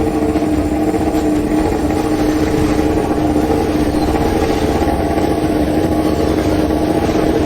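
MotoGP motorcycle engine running loud at a steady, held engine speed, its note not rising or falling.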